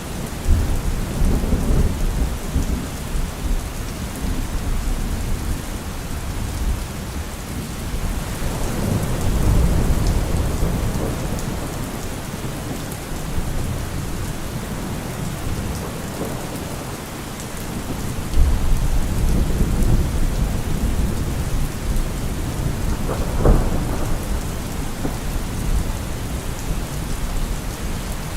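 Heavy rain falling on a car roof, a steady hiss, with thunder rolling in several times as low rumbles that swell and fade, and a sharper thunder crack toward the end.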